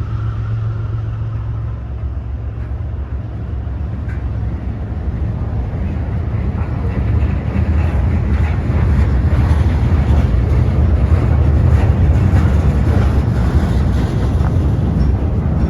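Diesel freight locomotives pulling a train slowly out of a siding, a steady low engine drone. About halfway through it grows louder as the rattle and clicking of wheels on rail builds up.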